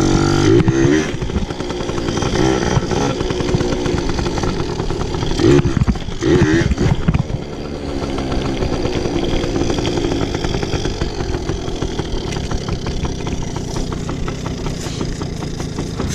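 Pit bike engine being ridden, its revs rising and falling sharply around the first second and again about six seconds in, then running steadier.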